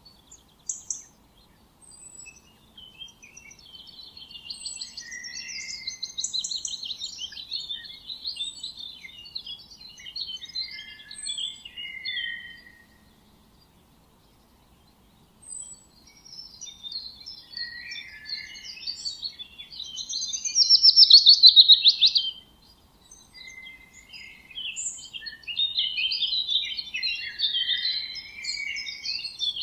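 Several songbirds chirping and trilling in high, rapid phrases, with a short lull about halfway through. The loudest trill comes around two-thirds of the way in.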